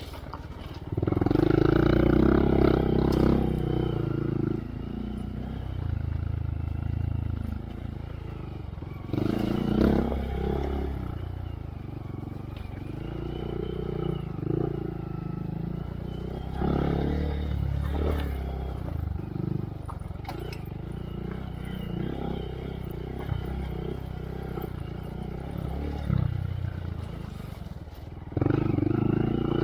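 2023 Honda Monkey's single-cylinder engine through a Yoshimura RS3 exhaust with spark arrestor, on a dirt trail: the throttle opens in four louder bursts, about a second in, around ten seconds, around seventeen seconds and near the end, easing back to a lower run between them.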